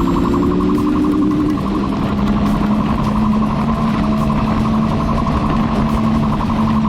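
Vehicle engine running at speed with heavy road and wind rumble, its pitch rising briefly at the start, under a rapidly pulsing police siren.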